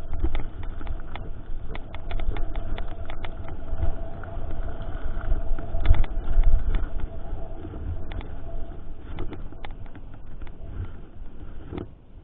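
Mountain bike ride heard from a GoPro: wind buffeting the microphone as a heavy rumble, with the rattles and knocks of the bike over rough trail. A faint steady whine runs through the middle.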